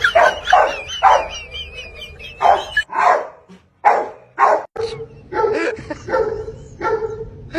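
Dog barking, a string of short barks about two a second, with a wavering high whine in the first two seconds or so.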